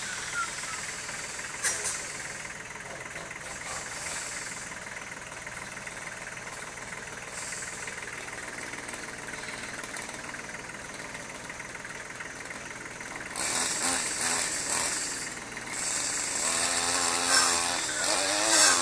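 A small engine running steadily at idle, then louder and revving up and down over the last few seconds.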